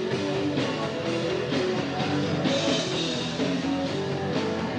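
Rock band playing an instrumental passage with no singing: electric guitar over bass and a drum kit keeping a steady beat of about two hits a second.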